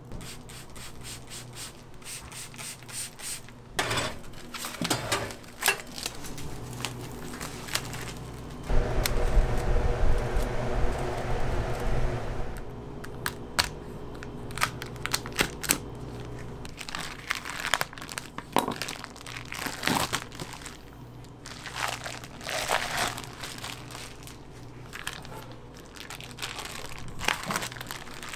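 Irregular crinkling and crackling, like material being handled and crumpled, with a louder stretch carrying a low rumble about nine seconds in that lasts some three seconds.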